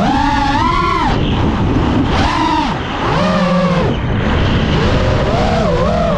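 Brushless motors of a 5-inch freestyle FPV quadcopter whining, the pitch rising and falling over and over as the throttle is punched and cut, with wind rushing over the onboard GoPro's microphone.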